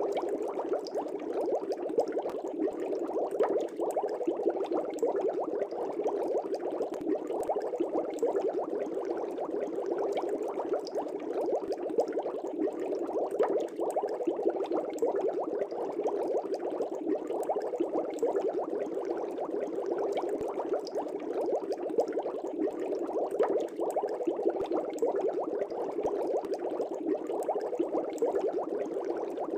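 Aquarium air bubbles rising and breaking at the water surface: a steady, dense bubbling with no pauses.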